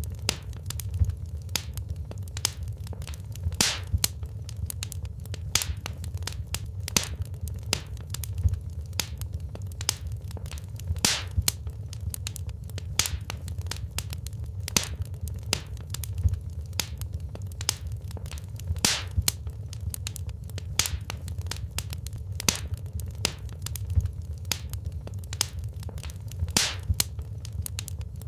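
Wood fire in a fireplace crackling: frequent sharp pops and snaps of burning logs over a steady low rumble of the flames.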